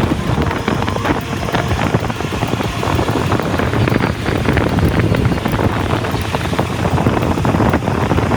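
Wind buffeting the microphone over the low rumble of a heavy truck, a steady crackling, rumbling noise.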